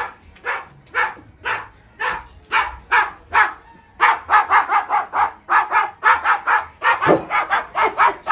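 A dog barking over and over, about two barks a second at first, then faster from about halfway, around four or five a second.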